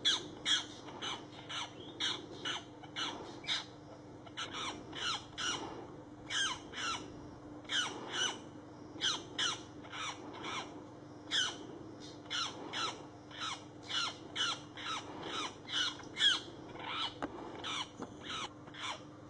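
A bird squawking over and over in short, harsh calls, about two a second, often in quick pairs or threes, each call dropping in pitch.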